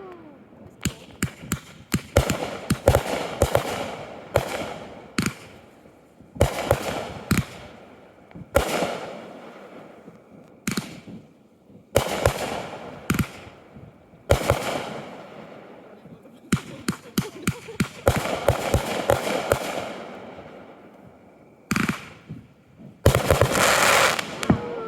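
Consumer aerial fireworks going off in a show: repeated sharp bangs, often several in quick succession, each trailing off in a crackling echo. A dense, loud cluster of bursts comes near the end.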